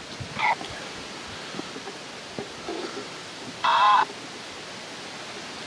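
Steady wind hiss on the microphone, broken by two brief pitched tones: a faint short one near the start and a louder one lasting about a third of a second past the middle.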